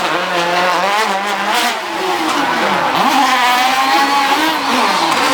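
Rally car engine revving hard. Its pitch climbs, drops sharply about three seconds in as the throttle is lifted or a gear is changed, then climbs again.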